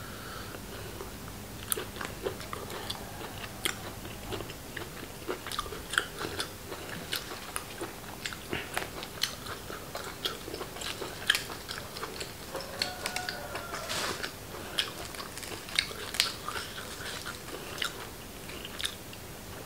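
Close-miked chewing and biting: a man eating mouthfuls of raw beef jue, an irregular run of short wet smacks and crunches, a few every second.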